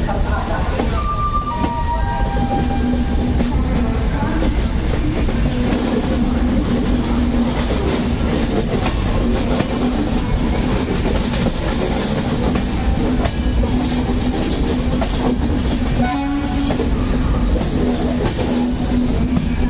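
Passenger train running, heard from the open door of one of its coaches: steady wheel-on-rail noise with a low steady hum through most of it.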